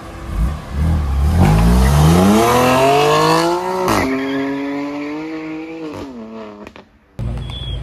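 BMW accelerating hard at full throttle: the engine revs climb for about three seconds, a quick upshift drops them sharply, then they hold and pull again before easing off and fading away as the car drives off.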